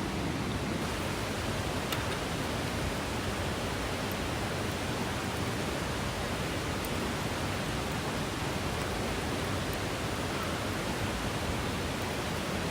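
Mountain stream water rushing steadily, an even unbroken noise.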